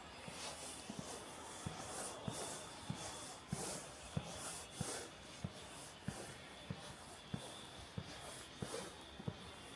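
Footsteps at a steady walking pace, about three steps every two seconds, over a hiss of rain.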